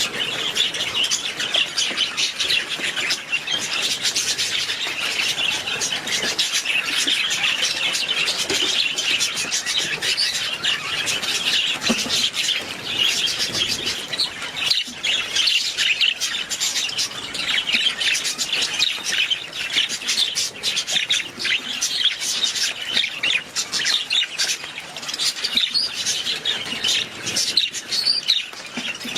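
A flock of budgerigars chattering continuously, many overlapping chirps, warbles and squawks at once.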